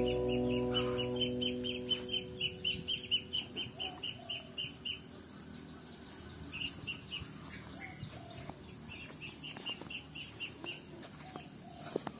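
A small bird chirping in quick, repeated high notes, about four or five a second, in runs broken by short pauses. The tail of background music fades out over the first two seconds.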